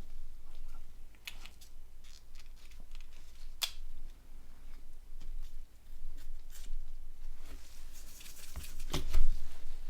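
Small plastic phone parts being handled and fitted together on a work surface: scattered light clicks and rustles, one sharp click about a third of the way in, and a busier spell of clicking with a low knock near the end.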